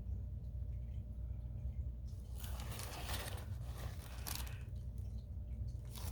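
A steady low hum, with about two seconds of rustling and scraping handling noise starting a little after two seconds in, and a few short clicks.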